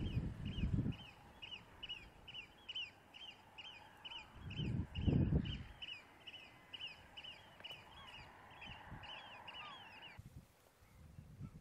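A bird on the tidal flats calling in a rapid, even series of short sharp notes, about three a second, which stop suddenly about ten seconds in. Wind buffets the microphone with low rumbles near the start and again about five seconds in.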